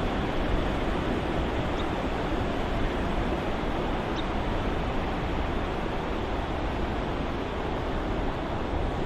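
Ocean surf soundscape: a steady, even wash of wave noise with no distinct individual breakers.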